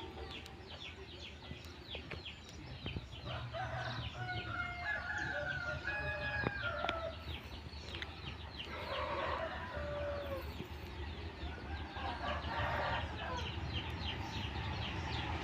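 Roosters crowing, a long crow about three seconds in followed by two shorter ones, with chickens clucking and small birds chirping rapidly throughout. A low rumble underneath grows slightly louder toward the end.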